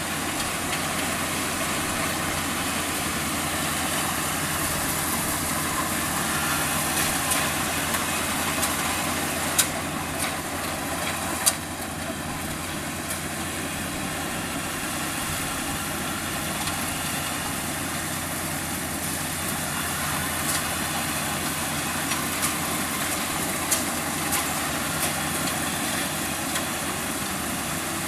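Kubota DC-35 combine harvester's diesel engine running steadily, with a couple of sharp clicks near the middle.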